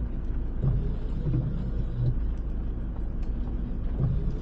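Steady low rumble of a camper van's engine and tyres, heard from inside the cabin as it creeps over rough, bumpy ground, with a few faint light knocks.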